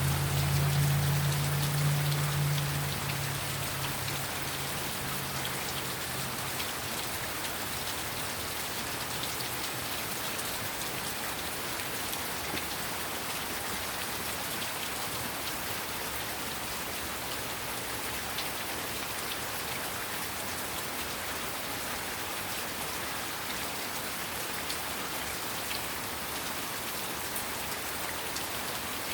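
Heavy rain falling in a steady, even rush with scattered drop ticks. A low rumble sounds over the first few seconds and fades away.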